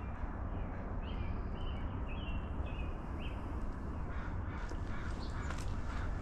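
A bird giving a run of short, high calls for a couple of seconds, over a steady low rumble.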